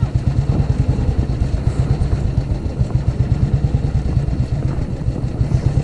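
Old Royal Enfield single-cylinder motorcycle engines running with a steady, even low pulse.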